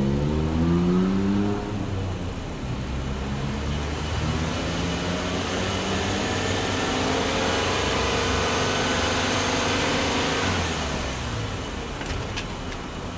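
Subaru Impreza Sport 2.0i-S's 2.0-litre flat-four boxer engine free-revving, heard from behind at the exhaust. A short rev falls back about two seconds in. From about four seconds in the revs climb slowly and are held high, then drop back near the end.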